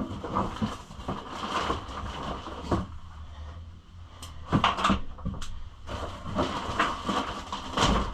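Hard plastic pit bike body panels knocking and clattering as they are pulled out and handled, with irregular knocks and rustling.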